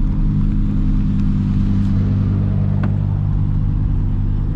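A car engine running steadily at low revs, a constant low exhaust rumble.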